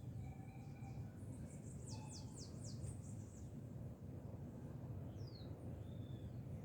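Wild birds calling: a quick run of about seven high, down-slurred notes a second or so in, with short scattered whistles, over a steady low background rumble.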